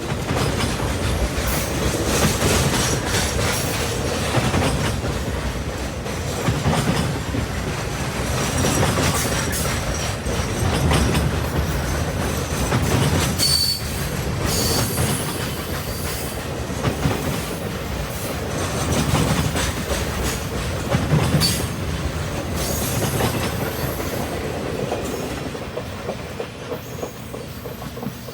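A Norfolk Southern Triple Crown RoadRailer train rolling past, with a steady clickety-clack of wheels over rail joints. Two short high wheel squeals come about halfway through, and the train fades away near the end as it clears.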